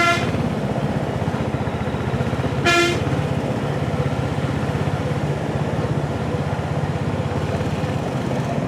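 Royal Enfield Hunter 350's 349 cc single-cylinder engine running steadily under way at cruising speed. A horn gives a short toot at the start and another about three seconds later.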